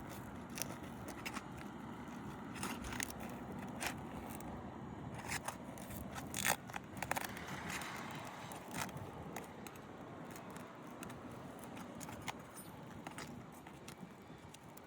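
Irregular metallic clicks and scraping from a roofing snake tool being worked under a 3-tab asphalt shingle, with a cluster of sharper knocks about halfway through.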